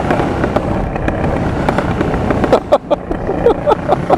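Honda Transalp PD06's V-twin running through a MIG aftermarket exhaust, popping and backfiring in a rapid, irregular string of sharp bangs that crowd together in the second half. The owner puts the backfiring down to cracked rubber intake boots letting extra air into the cylinders.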